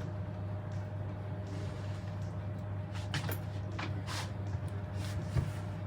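A steady low machine hum with a faint constant higher tone over it, broken by a few brief clicks or rustles and a soft thump about five seconds in.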